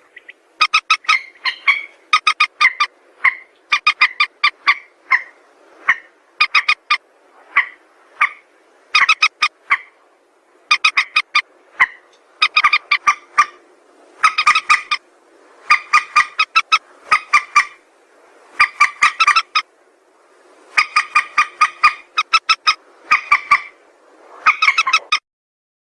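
Mandar sawah, a rail of rice fields, calling over and over: short bursts of quick pulsed notes, about one burst a second with brief pauses, stopping shortly before the end.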